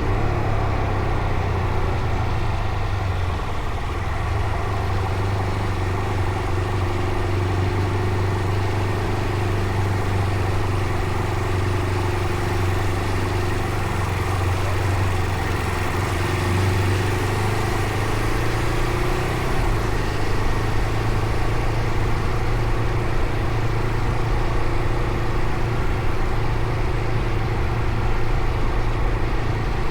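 Fantic Caballero Rally 500's single-cylinder four-stroke engine running steadily while riding along, its note shifting a little about two-thirds of the way through and growing slightly louder toward the end.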